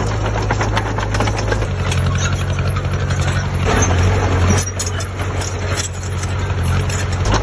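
Diesel engine of heavy earthmoving machinery running with a steady low hum and a dense mechanical clatter. The low hum drops for a few seconds after the middle and returns near the end.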